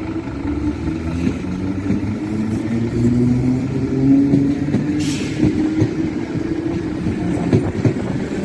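Motor vehicle engines running, with slowly drifting pitch and growing louder, and a short hiss about five seconds in.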